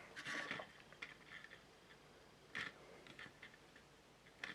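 Faint, scattered light clicks and taps from small plastic model parts being handled, over quiet room tone.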